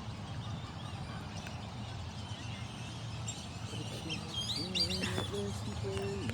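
Birds chirping over a steady low background noise, with a cluster of quick high chirps about three to five seconds in. Near the end there is also a lower wavering sound that settles onto a held note.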